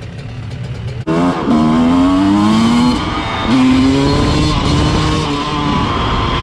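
Dirt bike engine idling, then about a second in revving and pulling away, its pitch rising, dropping briefly near three seconds in as it shifts up a gear, then rising again.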